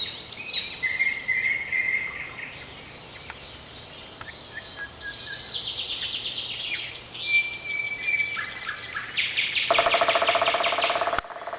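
Several wild birds singing at once: overlapping whistled phrases, chirps and fast trills. Near the end a loud, rapid rattling trill takes over, then cuts off abruptly.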